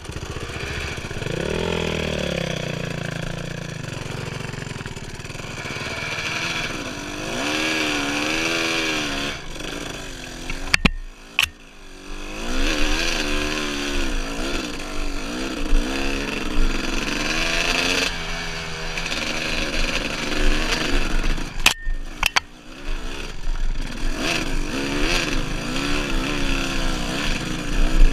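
Dirt bike engine running under way, its pitch rising and falling over and over with the throttle. It breaks off briefly twice, about a third of the way in and again about three-quarters of the way through.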